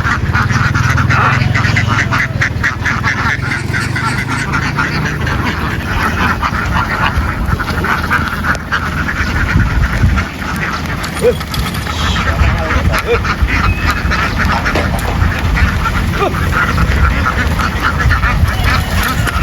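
A large flock of ducks quacking continuously, many calls overlapping into a dense din, with a steady low rumble underneath.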